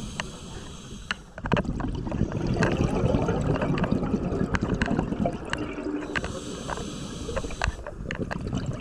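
Scuba diver breathing through a regulator underwater: crackling, rumbling bursts of exhaled bubbles, with a hissing inhale in between.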